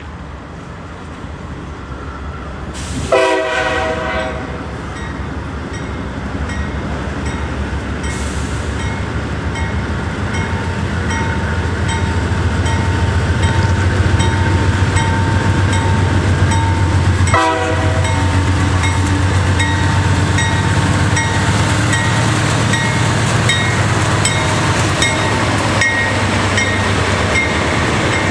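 Diesel train approaching and passing: the locomotive horn sounds a short blast about three seconds in and another brief one past the middle, over a low diesel rumble that grows louder and then holds steady, with wheels clicking over the rail joints.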